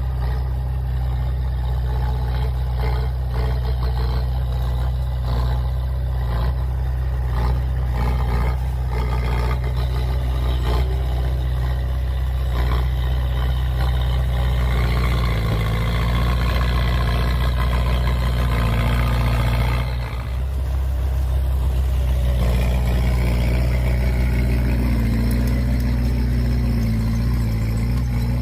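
Heavy diesel engine of a dump truck or bulldozer running steadily, with a brief drop in level about two-thirds of the way in.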